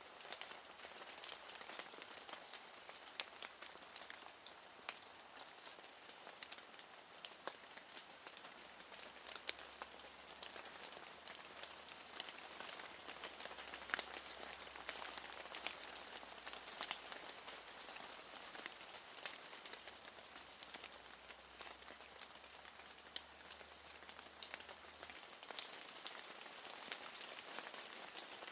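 Soft steady rain, with many separate drops ticking through a fine even patter. A faint low hum sits underneath from about nine seconds in until a few seconds before the end.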